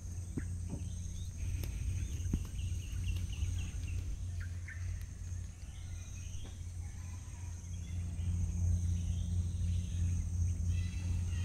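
Mangrove forest ambience: a bird calling in quick runs of short high chirps, about two seconds in and again near the end. The calls sit over a steady high insect drone and a low steady rumble.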